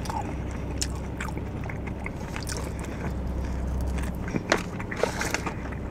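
A person biting and chewing a fried salt-and-pepper chicken wing close to the microphone, with scattered short crunches and mouth clicks, over a steady low hum.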